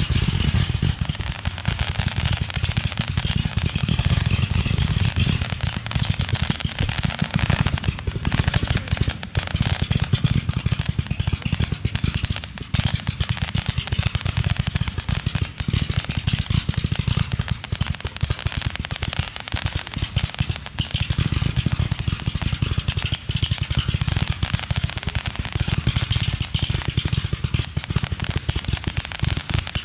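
Fireworks going off in a dense, rapid-fire string of bangs and crackles that runs without a break.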